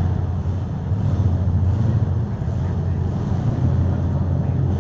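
Demolition derby cars' engines running together, a loud steady low rumble with no distinct crashes.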